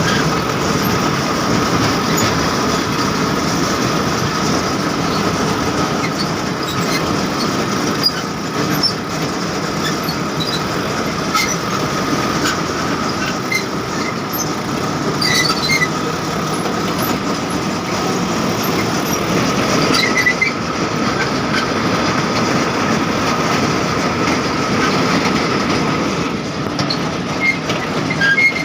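Tractor engine running steadily under load while cutting soil, with a steady whine and scattered metal clicks and squeaks from the working gear.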